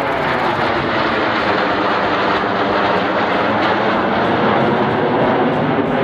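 A fixed-wing jet aircraft flying past, its engine noise loud and steady throughout.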